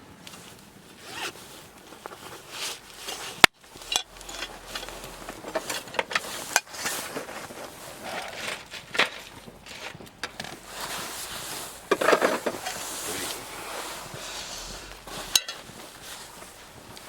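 Irregular rasping and scraping strokes, like a zipper being worked and things being handled, with a sharp click about three and a half seconds in and another near the end.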